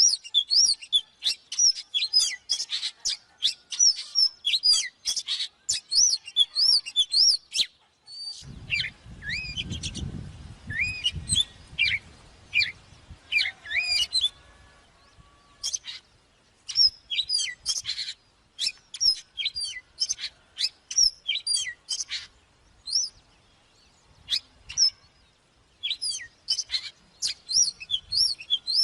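Oriental magpie-robin singing: rapid runs of clear, varied whistles with quick rising and falling sweeps, broken by short pauses. A low rumble sits under the song for a few seconds about nine seconds in.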